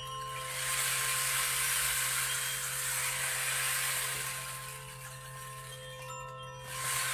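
Singing bowls ringing with long sustained tones over the steady rush of a flowing stream. The water noise swells about half a second in, eases toward the last couple of seconds and rises again near the end.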